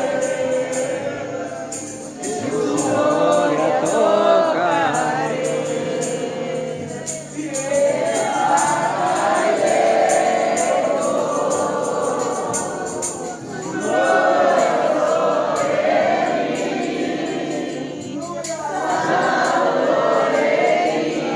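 A congregation singing a worship song together, over rhythmic percussion. The sung phrases pause briefly about every five to six seconds.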